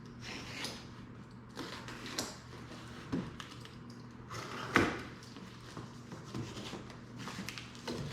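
A cardboard shipping box being opened and handled: scattered rustles, scrapes and knocks, with one sharp knock near the middle, over a faint steady low hum.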